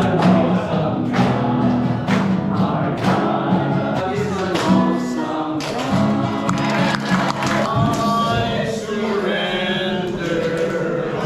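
A group of voices singing a gospel worship song over a band with a steady drum beat.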